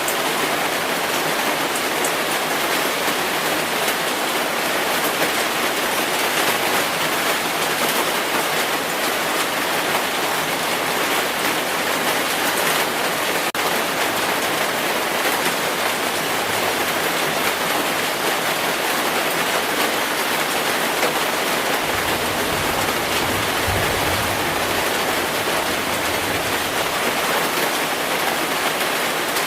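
Heavy rain falling steadily as an even hiss of water. About three-quarters of the way through, a low rumble of distant thunder runs for a few seconds.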